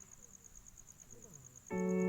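Insects trilling faintly in a fast, steady pulse. Near the end a loud, held keyboard chord of background music comes in.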